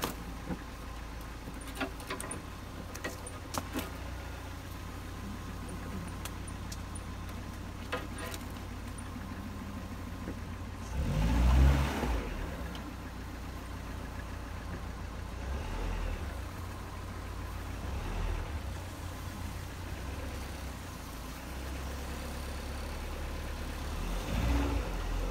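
Dodge Neon's engine running at low revs as the car crawls over the trail, with a brief burst of revving about eleven seconds in and another surge near the end. Scattered clicks and knocks in the first several seconds.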